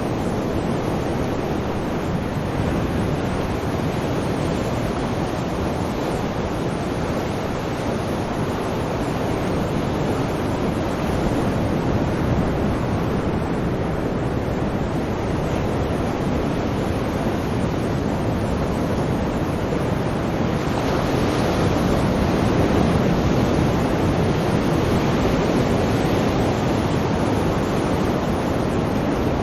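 Sea waves washing on a shore: a continuous rush of surf that swells a little louder about two-thirds of the way through.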